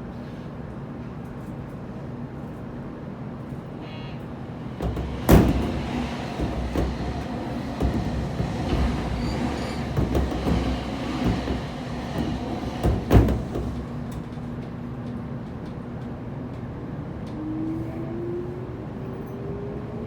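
Interior running sound of a JR Kyushu 811 series electric train pulling out of a station: a steady hum, then a stretch of wheel rattle with two sharp clunks about eight seconds apart as the wheels run over points and rail joints. Near the end a whine from the traction motors rises in pitch as the train accelerates.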